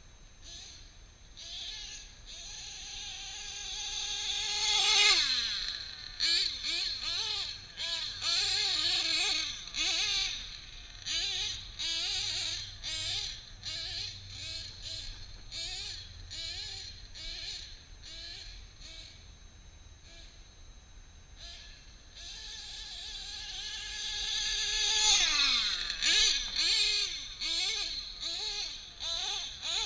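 A 1/7-scale nitro truggy's RCR drag-modified Novarossi .28 two-stroke glow engine running at high revs. It grows louder and then drops in pitch as it passes about five seconds in, then revs in many short throttle bursts as the truck drives about. A second high-speed pass with the same falling pitch comes about twenty-five seconds in.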